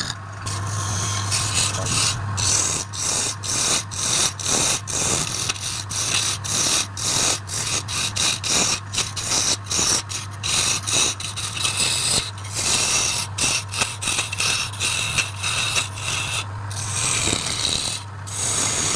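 Wood lathe running with a steady motor hum while a turning tool scrapes against the spinning workpiece in short repeated strokes, about two or three a second.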